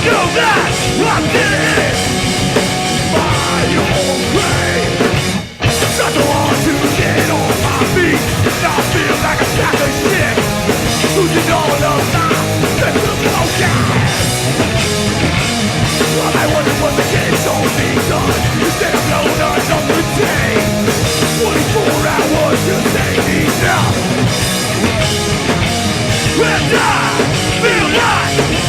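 Hardcore punk band playing live, loud and fast with drums and amplified guitars; the music cuts out for a split second about five and a half seconds in, then the band comes straight back in.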